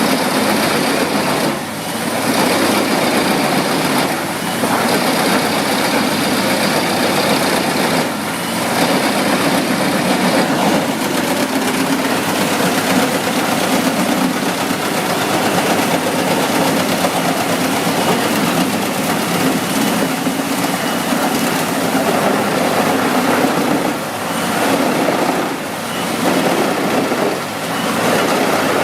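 Large wood chipper running under load: a loud, continuous engine and cutting noise with a steady low hum, briefly dipping in level a few times.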